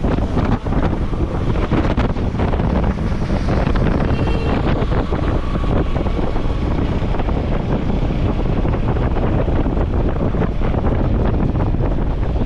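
Steady rush of falling water at a waterfall, with wind buffeting the microphone throughout.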